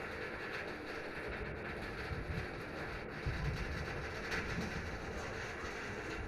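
Steady rumbling noise of a moving vehicle, the kind heard riding in a train.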